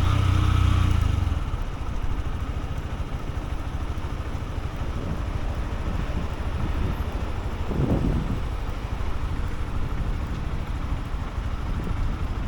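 Honda CB125F's single-cylinder engine running with a steady note for about the first second and a half. The clear engine tone then drops away into a rougher low rumble, with a brief louder swell just before the eight-second mark.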